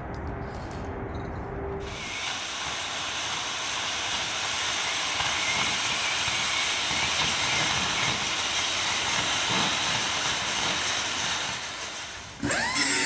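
A metal-cutting torch hissing steadily while it cuts the old steel skin of a dozer blade, after a quieter low hum for the first two seconds. Music comes in just before the end.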